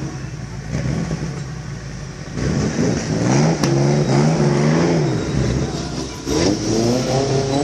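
Vintage car engine revving: the pitch climbs about two and a half seconds in, holds, then drops back, and it revs up again near the end.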